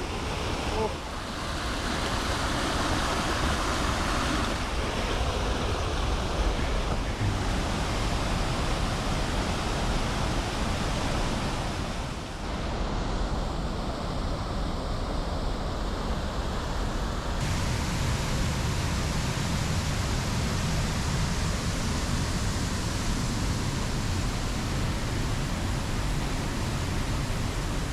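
Man-made waterfall in heavy flow after rain: a steady rush of falling water and spray.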